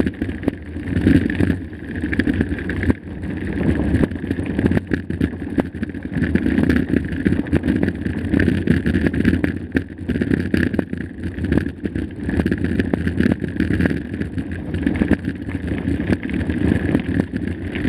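Mountain bike rolling fast over a rough dirt trail: steady tyre noise with a constant run of knocks and rattles as the bike goes over bumps.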